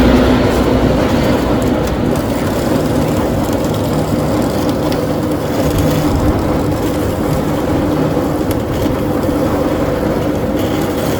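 A motor vehicle running steadily, a constant engine hum under loud travel noise.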